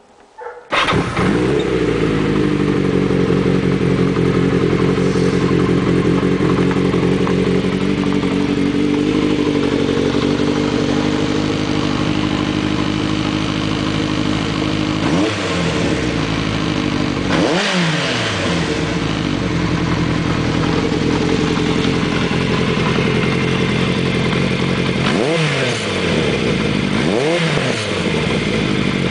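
1981 Kawasaki KZ750's four-cylinder engine, breathing through a Vance & Hines 4-into-1 exhaust, fires up under a second in and runs at a steady idle. Later it is revved four times, each a quick rise and fall in pitch.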